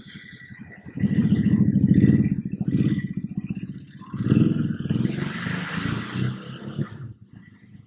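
Ducati Hypermotard's V-twin engine pulling away. It opens up about a second in and again about four seconds in.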